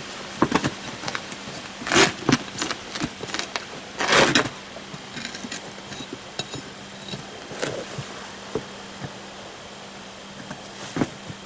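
Metal snips cutting through an old lawn tractor tire, with scattered clicks and knocks and two louder bursts of cutting about two and four seconds in.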